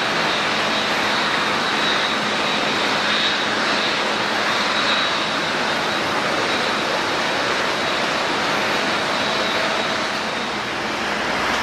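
Jet airliner engines, a steady rushing noise with a thin high whine running through it.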